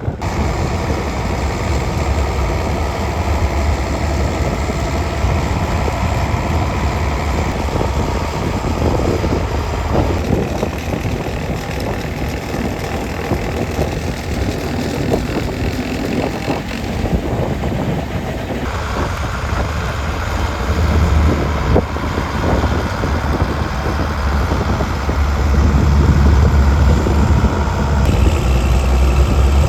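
International 5288 tractor's diesel engine running steadily, growing louder over the last few seconds.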